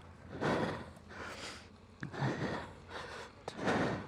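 A person breathing hard close to the microphone: about five short noisy breaths over a faint low hum.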